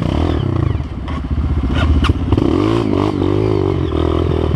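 Dirt bike engine running, its pitch swinging up and down in uneven revs through the middle, with a couple of sharp clacks of metal about two seconds in.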